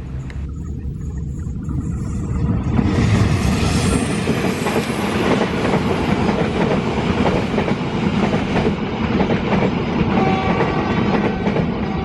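A train passing close by: its rumble builds over the first few seconds, then from about three seconds in the cars run past loudly, with the wheels clattering on the rails.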